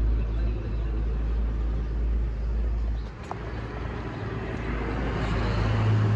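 An engine running with a steady low hum; a second, slightly higher hum comes in near the end.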